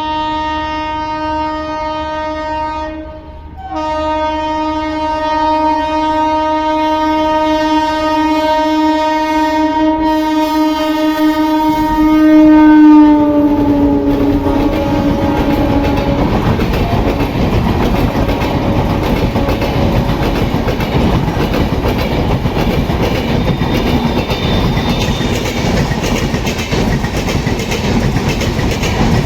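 Indian Railways Duronto Express locomotive horn sounding almost continuously, with one short break about three seconds in. Its pitch drops as the locomotive passes, about thirteen seconds in, the loudest moment. The horn then fades, and the coaches run by at speed with a steady rumble and clatter of wheels on the track.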